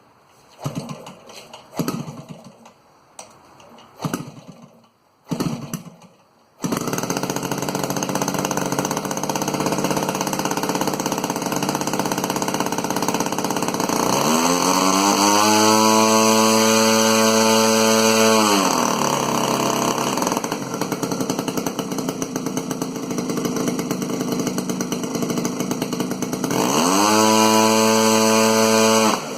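An airplane engine: a few knocks, then the engine starts suddenly about six and a half seconds in and runs loudly. It revs up twice, its pitch rising and then holding, once in the middle and again near the end.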